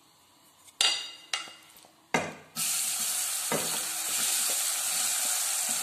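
A few sharp utensil clinks, then about two and a half seconds in a sudden loud sizzle as a batch of chili-and-turmeric-coated elephant yam pieces drops into hot coconut oil in a kadai. The deep-frying sizzle carries on steadily.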